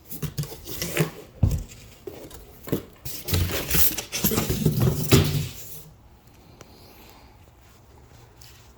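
Packaging of an opened generator box being handled and pulled apart: rustling, scraping and knocks for about six seconds, then quiet.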